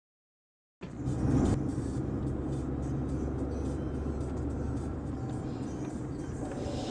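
Inside a moving car: steady engine hum and road rumble picked up by the dash camera's microphone, cutting in abruptly about a second in after dead silence.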